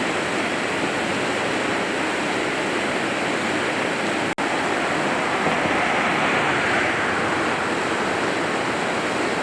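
Steady rushing water, an even roar without pitch or rhythm. The sound cuts out for an instant a little after four seconds in.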